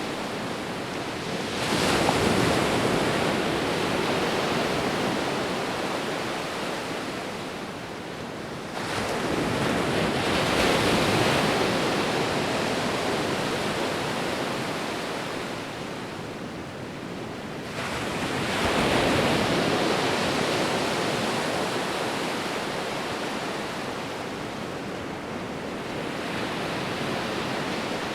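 Sea waves rolling in and breaking on a shore. Three waves break, about 2, 9 and 18 seconds in, each with a sudden rush that fades slowly back into the steady wash of surf.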